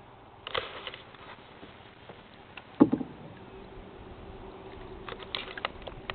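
Scattered light knocks and taps in a canoe, with one sharp, louder knock just before the three-second mark.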